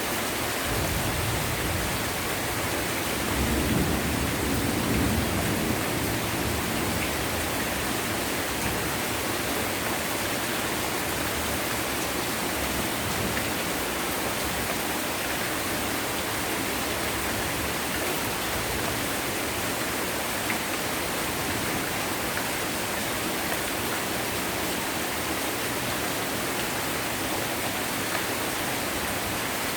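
Heavy rain falling steadily, a dense, even hiss of downpour, with a slightly louder low swell about three to six seconds in.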